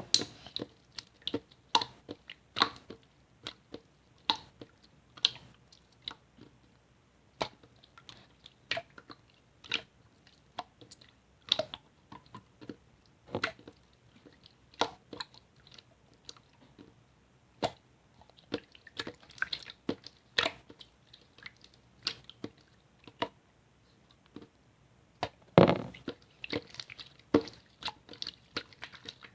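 Slime being squeezed and pressed by hand, making irregular sticky pops and clicks, one to three a second. A denser, louder run of pops comes near the end.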